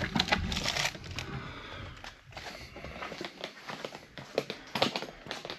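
Irregular rustling and crinkling with scattered light clicks: things being handled.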